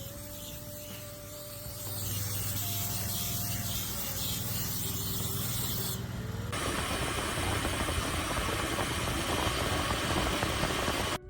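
A vehicle engine running with a steady hiss over it; about six and a half seconds in the sound changes abruptly to a louder, rougher noise.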